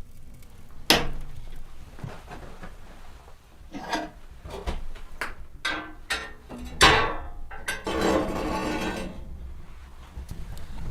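Handling knocks and clatter: a sharp knock about a second in, then a run of clacks and clinks, and about a second of rough scraping near the end.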